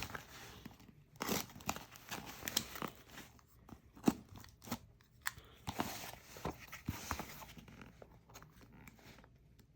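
Packaging being handled: irregular crinkling and rustling with scattered light clicks and knocks as a shipping box is readied for opening.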